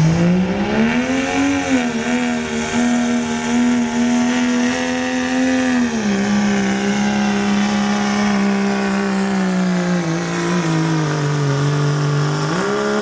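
Turbocharged diesel pickup engine at high revs under full load, pulling a sled, with a high turbo whistle above it. The revs climb about a second in and hold, drop around six seconds and again a few seconds later as the truck bogs down, then rise once more near the end.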